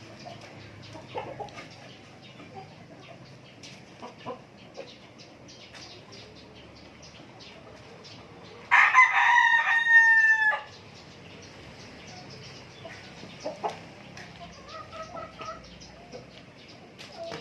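A native chicken rooster crows once, loudly, about nine seconds in, the crow lasting about two seconds, amid faint clucking and scattered soft calls from the flock.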